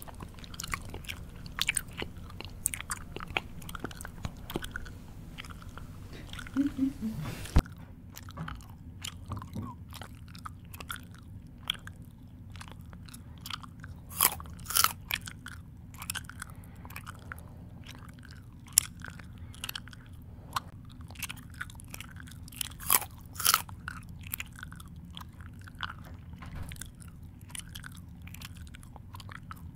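Close-miked person chewing, with irregular wet mouth smacks and crunchy bites; a steady run of chewing.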